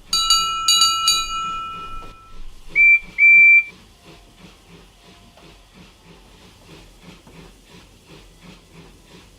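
Steam locomotive whistle: a chord whistle of several tones sounds in short toots and then holds for about two seconds. About three seconds in, two short, very loud, higher toots follow. Then the engine's steady, even chuffing runs on quietly.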